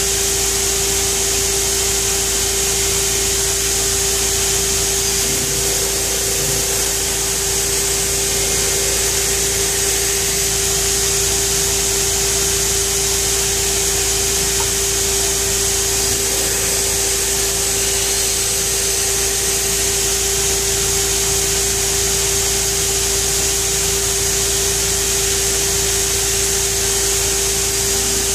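Pheer 327 2x72 belt grinder running steadily, with a constant whine and a steady hiss that do not change.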